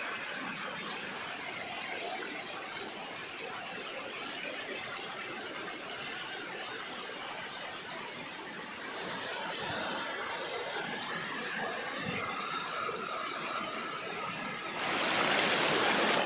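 Steady rush of flowing floodwater, with a louder burst of hiss near the end.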